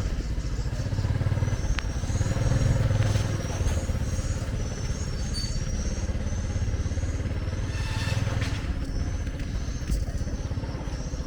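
Street traffic: the low rumble of motorbike and other vehicle engines passing, rising and falling in waves, with a run of short high chirps or squeaks repeating throughout.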